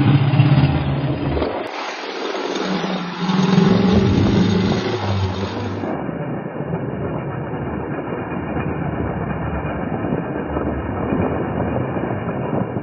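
Suzuki DR-Z400E dual-sport motorcycle's single-cylinder four-stroke engine running on the move and revving up and down, with its note climbing about three seconds in, over a steady rushing noise.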